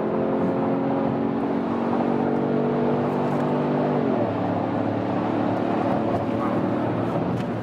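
2017 Ford Fusion Sport's twin-turbo 2.7-litre EcoBoost V6, with its muffler deleted, pulling hard at full throttle, heard from inside the cabin. About four seconds in the engine note drops sharply as the transmission shifts up, then it keeps pulling in the next gear.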